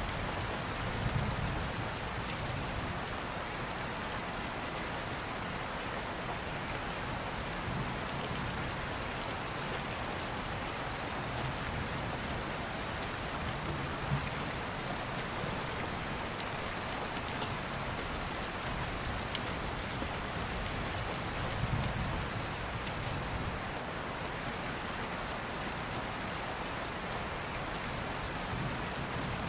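Steady rain, with soft low rumbles of distant thunder swelling about a second in, around halfway and again about two-thirds of the way through. Scattered faint sharp ticks sound over the rain.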